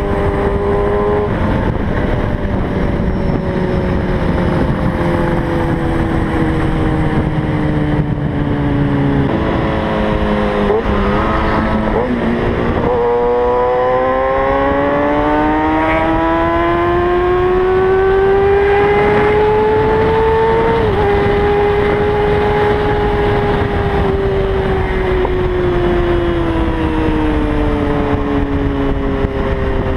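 Kawasaki ZX-6R sport bike's inline-four engine riding at highway speed with wind rushing past. The engine note sags slowly, shifts about ten to thirteen seconds in, then climbs steadily under throttle until about twenty-one seconds in, and eases off again.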